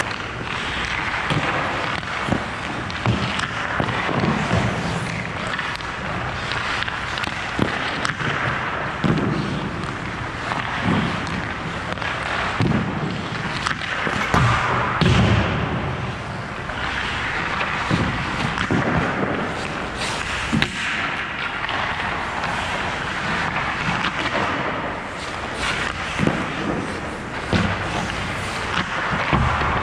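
Ice-hockey shooting drill: irregular thuds and knocks, several every few seconds, as pucks are shot and hit goalie pads and equipment, over steady rink noise.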